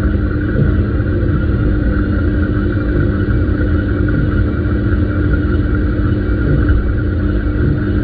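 Washing machine running: a steady low rumble with a constant motor hum.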